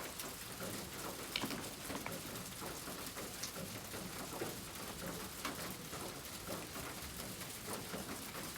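Oil pastel scraping and tapping against kraft paper in short, irregular strokes, over a steady hiss.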